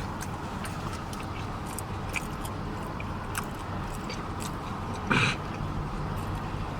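Close-miked chewing of a jerk turkey sub sandwich: scattered small wet clicks and smacks of the mouth, with one louder short mouth sound about five seconds in, over a steady low hum.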